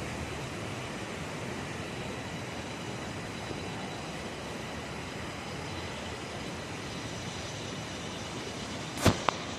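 Steady rush of flowing water, an even noise that doesn't change, with a couple of sharp clicks near the end.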